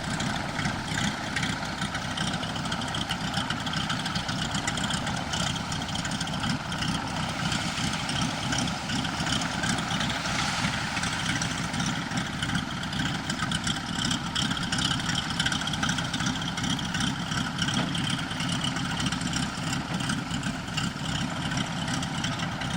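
An engine running steadily, swelling slightly about ten seconds in.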